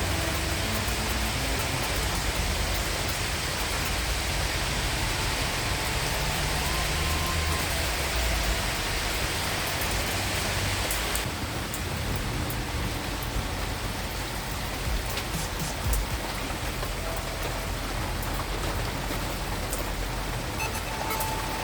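Steady rain falling in a continuous hiss. Its higher part drops away suddenly about halfway through.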